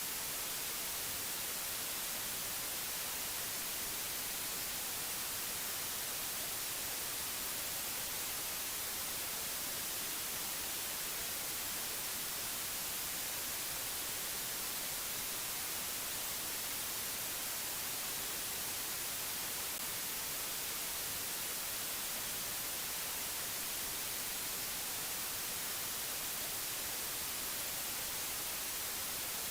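Steady white-noise hiss, even and unchanging, brightest in the high frequencies.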